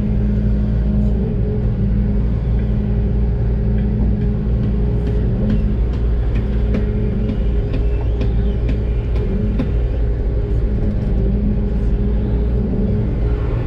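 Doosan DX600 excavator's diesel engine running steadily, heard from inside the cab, with scattered light clicks and knocks through the middle.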